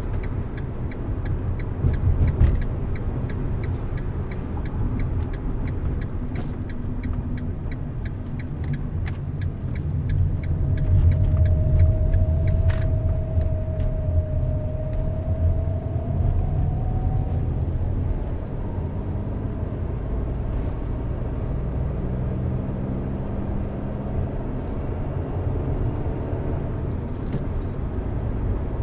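A car driving on a road: steady low rumble of engine and tyres. A fast, light ticking runs through the first ten seconds or so, and a steady whine rising slightly in pitch sounds from about eleven to seventeen seconds in.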